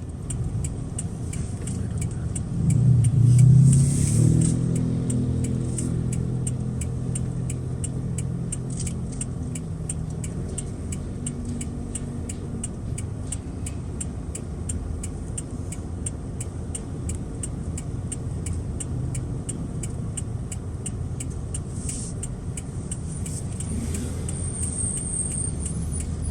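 Car engine running with road noise while driving. About three seconds in, the engine revs up briefly as the car accelerates, then settles to a steady cruise.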